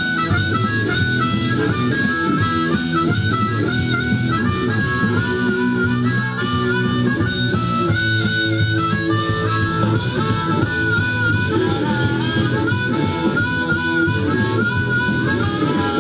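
Blues band playing: a harmonica solo with wavering, bending notes over guitar accompaniment.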